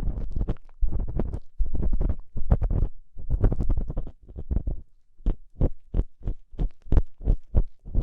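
An ear-cleaning tool scraping and rubbing inside a dummy-ear microphone, with a heavy low rumble under each stroke. Long, close-packed strokes give way, about five seconds in, to quick short scrapes at about three or four a second.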